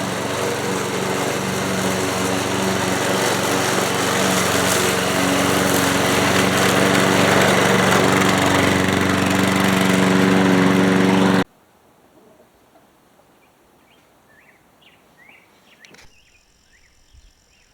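A 1979 Ace Hardware push mower's small engine running steadily, then stopping abruptly about eleven and a half seconds in. Faint bird chirps follow.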